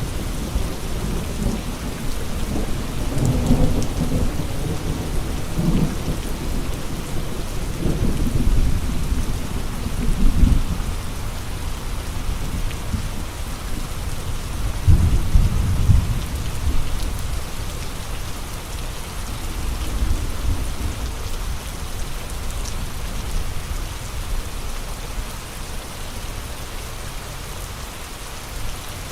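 Steady heavy rain with strong gusts of wind that surge low and loud several times, then ease off toward the end.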